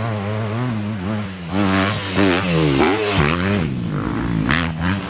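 Motocross dirt bike engines revving on the track, the pitch rising and falling again and again as the throttle is worked, over a steadier low engine drone.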